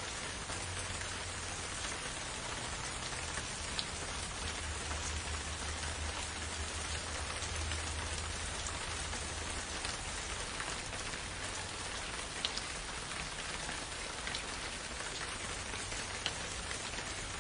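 Steady rainfall, a dense even hiss with individual drops ticking now and then, over a low rumble.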